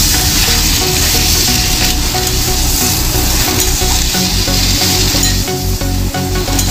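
Thick vegetable mash frying in an aluminium kadai with a steady sizzle, while a metal spatula stirs and scrapes it around the pan.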